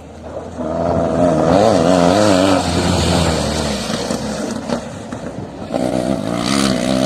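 Off-road vehicle's engine running under load, its pitch wavering up and down with the throttle. It is loudest for the first few seconds, eases off in the middle, and picks up again near the end.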